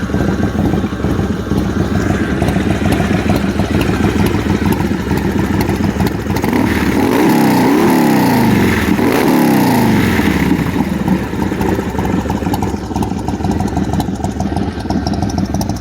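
2000 Harley-Davidson Softail Springer's Twin Cam 88B V-twin idling through a D&D Fat Cat 2-into-1 exhaust. About halfway through, the throttle is blipped in a couple of revs, and the engine then drops back to idle.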